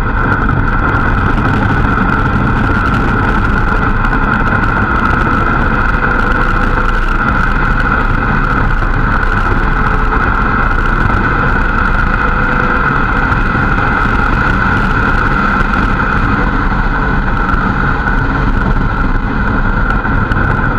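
Ramp truck driving at a steady pace, its engine running with continuous road rumble and a steady high whine, heard from inside the cab.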